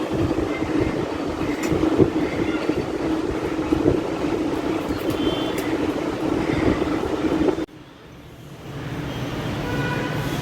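Steady rumbling background noise with scattered irregular knocks. About three-quarters of the way through it cuts off abruptly, then rises again more quietly with a few thin high tones.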